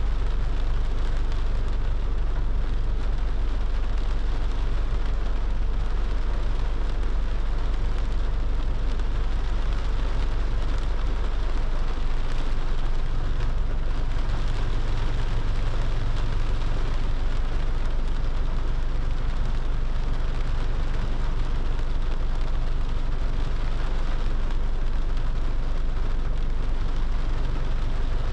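Steady rain hiss with the low, even rumble of a car driving on a wet road.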